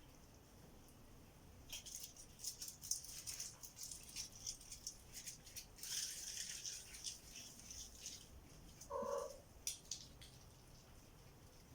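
Several seconds of rapid, faint scratching and rustling clicks, then a single short cat mew about nine seconds in.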